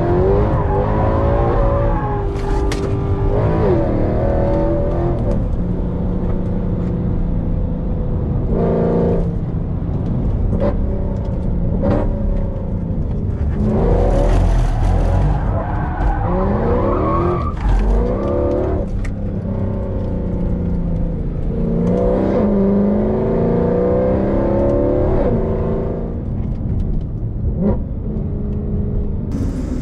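Mercedes C63 AMG's 6.2-litre V8 with catless headers, heard from inside the cabin, revving up and falling back again and again as the car is driven through drifts. A few short sharp cracks cut in along the way.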